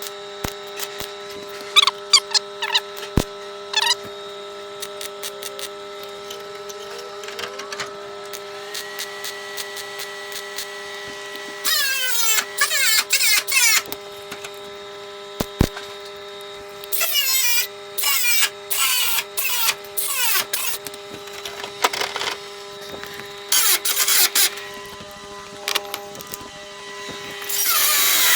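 Shop metalwork on sheet metal: a steady machine hum with a few sharp clicks, then several harsh bursts of one to two seconds each from about twelve seconds on.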